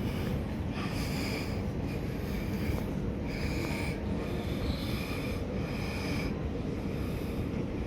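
Handheld camera carried through a station concourse: a steady low rumble of the space and the moving microphone, with irregular short rustling bursts about every second.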